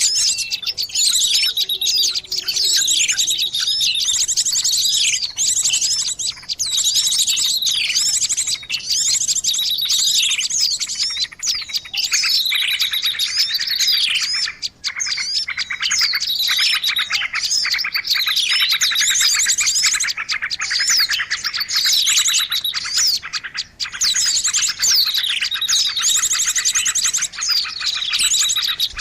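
A noisy mass of small birds chirping and calling over one another in a continuous din, with fast rattling trills and quick downward-sweeping chirps. It is the kind of busy, agitated flock chatter played as a lure to draw birds in.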